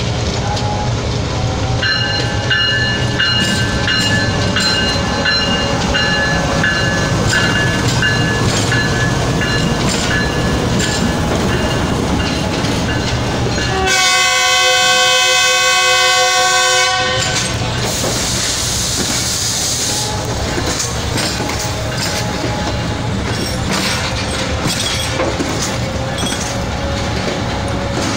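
Diesel-hauled passenger train rolling slowly past, its coaches clacking and rumbling over the rails, with the horn sounding for about three seconds just past the middle. A hiss follows shortly after the horn.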